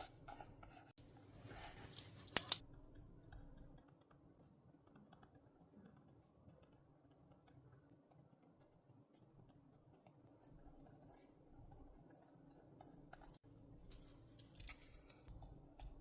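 Scissors cutting paper, with a couple of sharp snips about two and a half seconds in. After that come faint small clicks and paper rustles.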